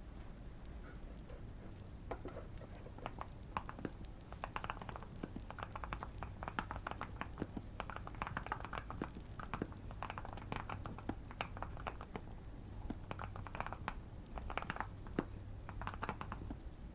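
Typing on a modded Keychron Q1 mechanical keyboard: quick runs of keystrokes with short pauses between them. Light fireplace crackling and a low steady hum run underneath.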